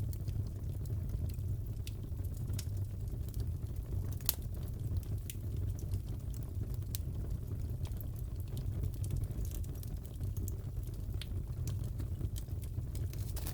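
Fireplace fire crackling: a steady low rumble with scattered sharp pops, the loudest about four seconds in.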